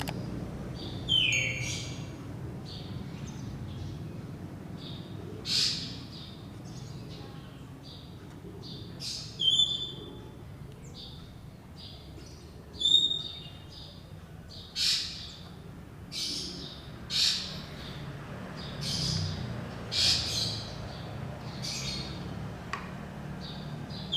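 Birds chirping: short, sharp high calls every second or two, a few of them with a brief clear whistled note.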